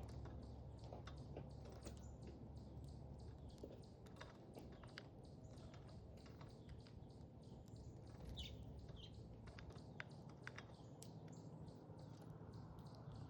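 Small birds at a seed feeder: faint, irregular clicks and taps of feeding, with a couple of short high chirps about eight and nine seconds in, over a low steady hum.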